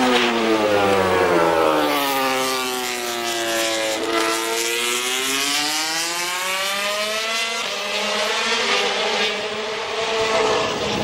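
Suzuki MotoGP racing motorcycle engine running hard. Its note falls for about four seconds as it slows, climbs again as it accelerates, and shifts to a steadier note near the end.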